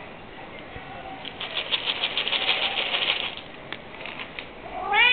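A quick run of crisp clicks lasting about two seconds, then near the end a domestic cat's meow that rises and falls in pitch.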